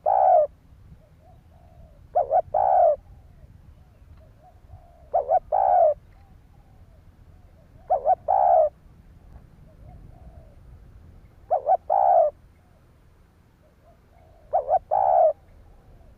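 Spotted dove cooing, a decoy dove's call for luring wild doves: phrases of two short notes followed by a longer note, repeated about every three seconds, with faint softer coos in between.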